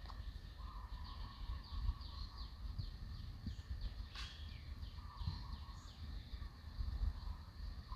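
Birds chirping in rapid series of short falling notes, with a lower warbling call in bursts, over a steady low rumble; one sharp click about four seconds in.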